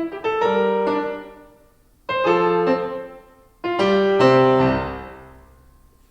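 Piano playing three slow chords, each struck and left to ring out, the last fading away near the end: the closing chords of the piece.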